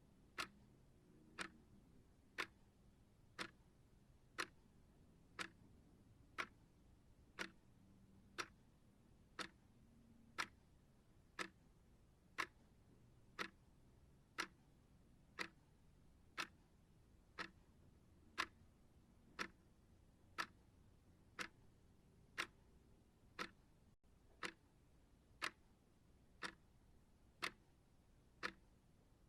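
Clock ticking steadily, one sharp, even tick each second.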